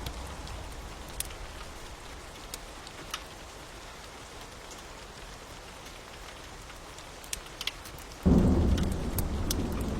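Steady rain with scattered sharp crackles from a wood fire. About eight seconds in, a loud low rumble of thunder breaks in suddenly and goes on rolling.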